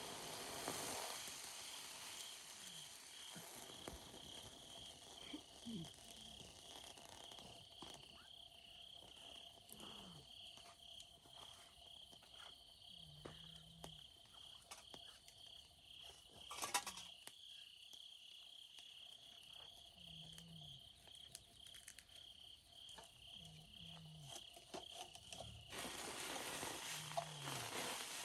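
Insects chirping in a steady pulsing trill, with scattered faint crackles from a campfire and one sharper pop about two-thirds of the way through. Near the end the chirping gives way to a soft hiss.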